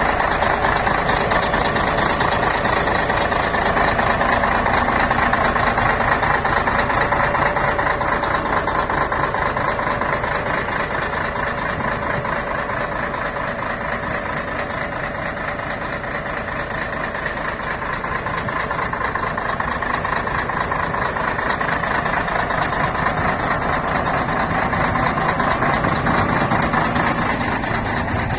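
Scania K113 CL coach's diesel engine running with a steady, heavy drone, easing a little in the middle and building back up near the end.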